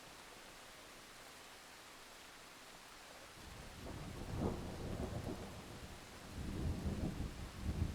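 Steady hiss of rain, then rolling thunder from about three and a half seconds in: a low rumble that swells, eases, and swells again near the end.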